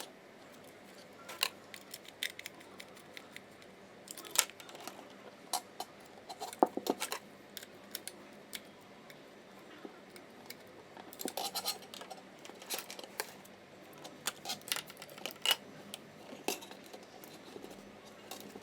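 Scattered small clicks, taps and scrapes of hands working electrical wires into the terminals of a wall socket, some coming in quick little clusters.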